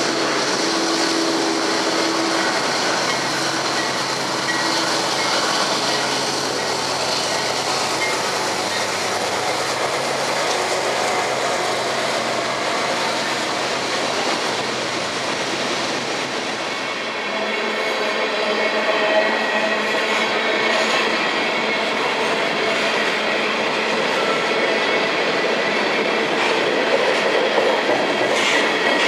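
Freight train rolling past: a steady rumble and rattle of cars on the rails, changing about two thirds of the way through to a sound with faint wheel squeal and scattered clicks.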